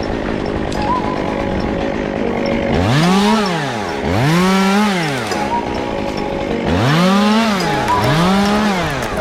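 Two-stroke chainsaw engine revving up and dropping back four times, in two pairs, under background music.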